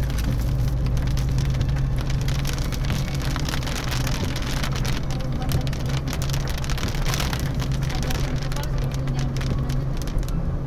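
Heavy rain pattering densely on a car's roof and windscreen, heard from inside the cabin, over the steady hum of the car's engine and tyres.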